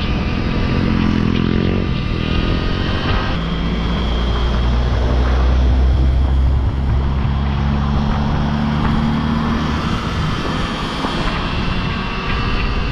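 Wind rushing over the microphone while riding an electric dirt bike, with the motor's hum sliding up in pitch early on and then running steadier.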